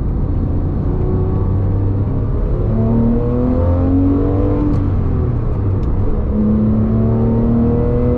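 2010 Porsche 911 GT3's flat-six engine heard from inside the cabin under way, with road noise beneath. The engine note climbs under acceleration, eases off about five seconds in, then climbs again.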